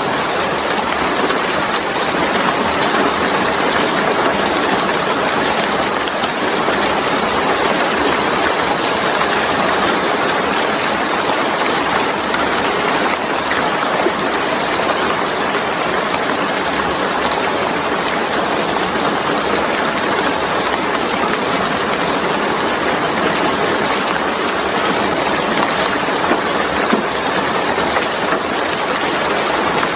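Steady heavy rain falling, a dense even rush of water with no breaks.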